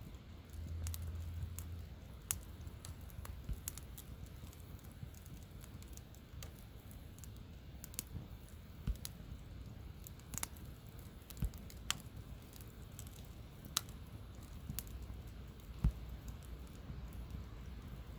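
Wood campfire crackling, with irregular sharp pops at uneven intervals over a low steady rumble.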